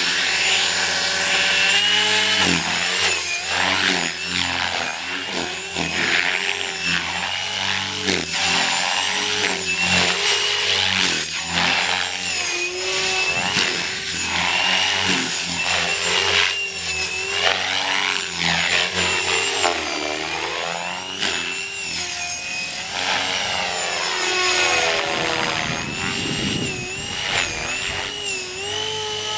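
Electric GAUI Hurricane 425 radio-controlled helicopter in flight: a continuous whine from its motor, gears and rotor blades, its pitch rising and falling over and over as the rotor is loaded and unloaded through manoeuvres.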